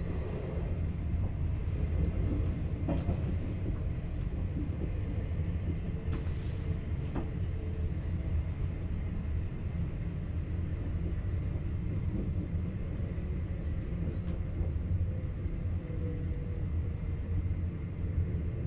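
VIRM double-deck electric train heard from inside its driver's cab: a steady low rumble with a few sharp clicks from the track. A brief hiss comes about six seconds in.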